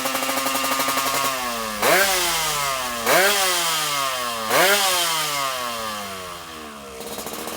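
Motorcycle engine with a Cobra underbelly exhaust and a small Kymco-type magneto flywheel fitted. It idles, then is blipped three times, each rev rising sharply and falling back slowly. Near the end it dips low and settles back to idle.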